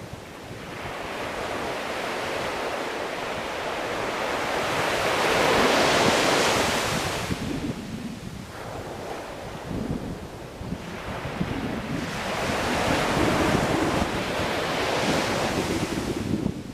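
Sea waves breaking and washing up the shore in slow swells, each rush building and then falling away, two big surges in a few seconds.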